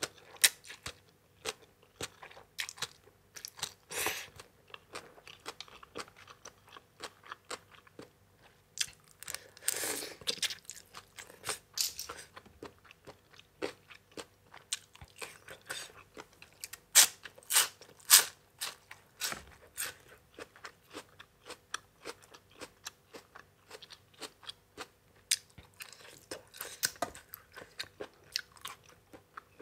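Close-up chewing and crunching of a spicy Thai som tam eaten with crisp raw vegetables. Many sharp, irregular crunches follow one another without a steady rhythm.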